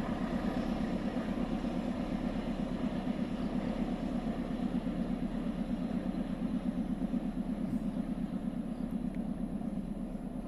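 Diesel engine of a CC 206 locomotive running steadily with a fast, even throb, slowly fading near the end.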